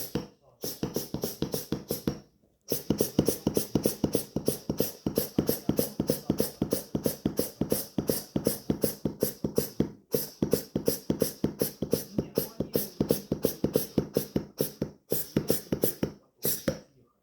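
German shepherd rapidly squeezing a squeaky ball in its jaws, the squeaker going off in a fast, even rhythm of about five squeaks a second, like a sewing machine. The run breaks off briefly about two seconds in and stops shortly before the end.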